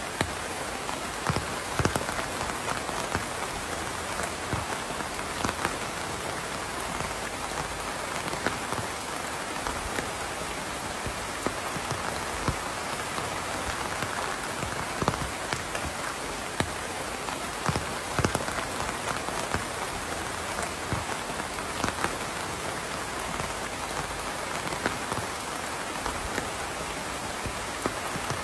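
Steady rain falling, an even hiss with many separate louder drops pattering close by.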